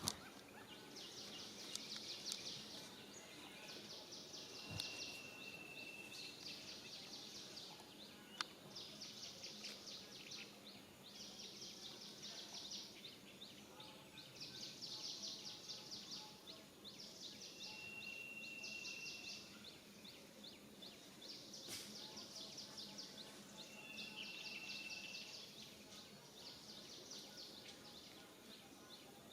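Outdoor ambience of insects calling in repeated high, rapidly pulsing buzzes, each about a second long, with a few brief steady whistled notes and occasional faint clicks.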